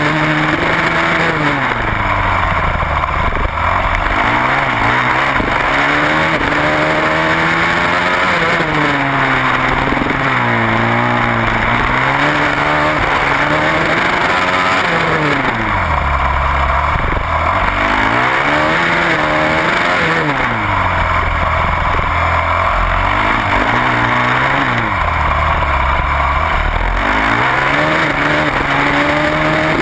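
Onboard sound of a single-cylinder supermoto racing motorcycle at race pace, its engine pitch climbing and dropping again and again every few seconds as it accelerates and brakes through the corners, over steady wind and road rush.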